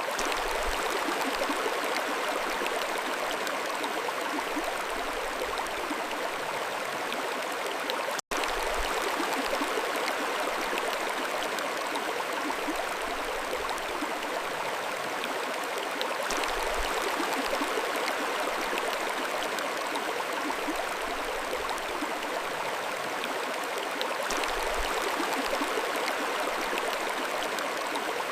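Mountain stream flowing, a steady rush and babble of water over stones. The sound cuts out for an instant about eight seconds in.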